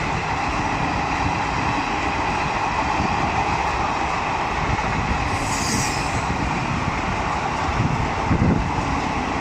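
Indian passenger train coaches rushing past at speed: a steady rolling rumble of wheels on rail, with a brief hiss about five and a half seconds in and a cluster of heavier thumps near the end.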